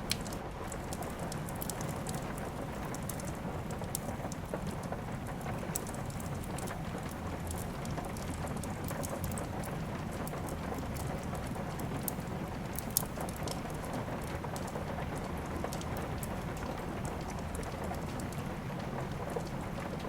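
Steady rain hiss with a low rumble, mixed with the sharp crackles and pops of a wood fire in a fireplace. There is one louder pop just after the start and another about 13 seconds in.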